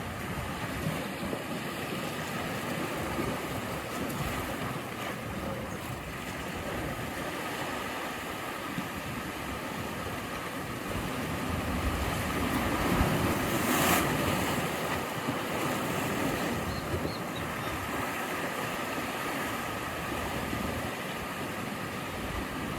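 Sea surf washing continuously against the shore, swelling to a louder wave breaking about two-thirds of the way through, then settling back to a steady wash.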